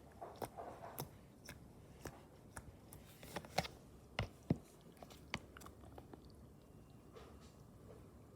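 Pink slime being squished and poked by hand, giving irregular sticky clicks and small pops, with a few louder pops around the middle.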